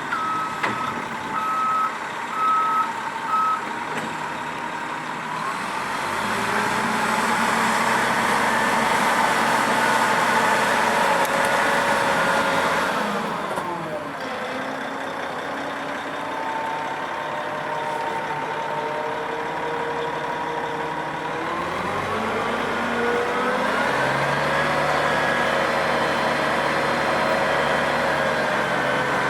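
Cat 740 articulated dump truck: its reversing alarm beeps several times at the start, then its diesel engine revs up, holds high, drops back to a lower speed about halfway through, and revs up again, holding steady to the end.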